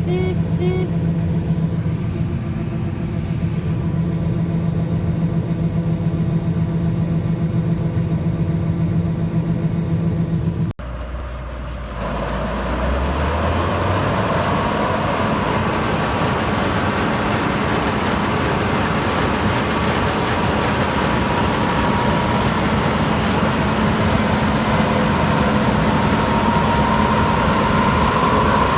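Diesel farm machinery running steadily at harvest. An abrupt cut about a third of the way in gives way to a louder, noisier machine sound, its engine pitch rising over the next couple of seconds and then holding steady with a high whine.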